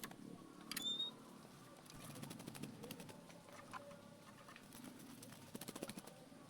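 A caged Oriental magpie-robin (kacer) gives a single short, high chirp about a second in, among scattered light taps and rustles from its movements.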